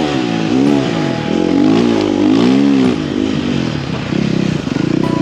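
Snow bike engine revving up and down repeatedly, its pitch rising and falling in swells about once a second, then running steadier and rougher near the end.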